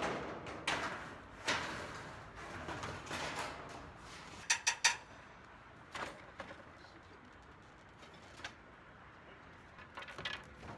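Scattered light knocks and clicks with quiet gaps between them, including a quick pair of sharp clicks about halfway through.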